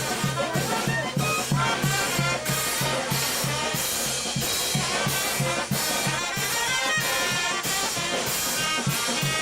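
Brass band playing: trumpets and trombones carrying a melody over a steady, quick drum and bass beat.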